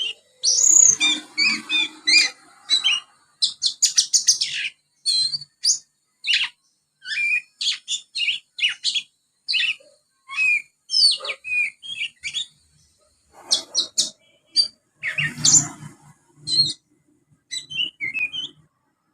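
Young oriental magpie-robin twittering, a rapid chatter of short chirps and quick whistled notes in bursts with brief pauses. The song is filled with mimicked Eurasian tree sparrow chirps.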